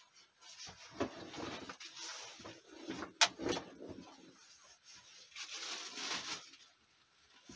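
Irregular rustling and scraping of things being handled and shifted by hand, with one sharp click or knock about three seconds in.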